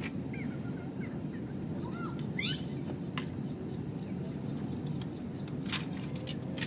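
Birds chirping over a steady low background rumble, with one loud, sharply rising call about two and a half seconds in. A few light knocks come near the end as a stepladder is taken hold of.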